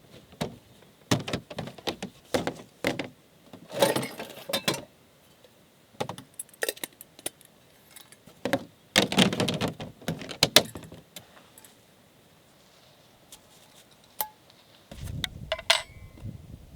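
Irregular clinking and rattling of small hard objects being handled, in short clusters with quiet gaps between; a low rumble comes in near the end.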